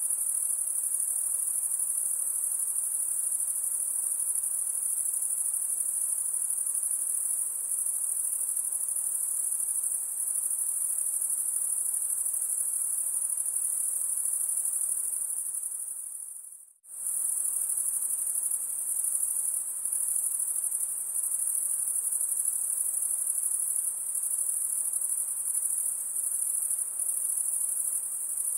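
High-pitched insect chorus, a steady shrill trill. It fades out briefly about two-thirds of the way through and comes straight back.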